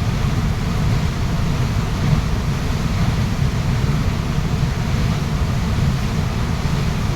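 A waterfall pouring steadily: a loud, even rush of falling water, heaviest in its deep low end.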